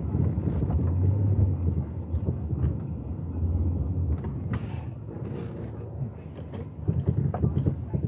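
A vehicle driving slowly on an icy, snow-covered road: steady low road and engine noise with scattered crackles from the tyres on the snow and ice.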